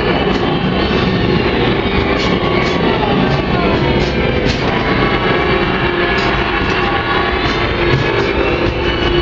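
Disneyland Railroad steam train running along the track, with sharp clicks now and then, over background music.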